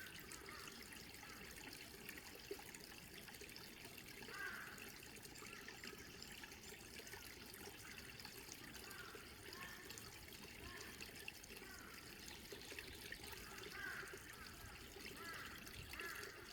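Faint trickling of a small mountain stream, steady throughout, with short chirps now and then.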